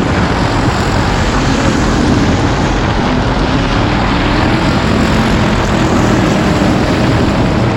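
Race car engine running hard at speed, a steady loud drone with the wind and track noise of a dirt-track race mixed in.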